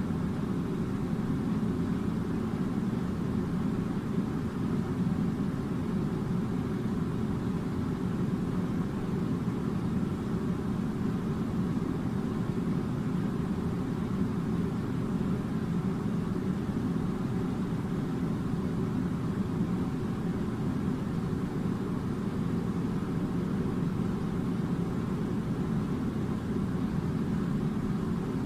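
A steady low droning rumble that doesn't change.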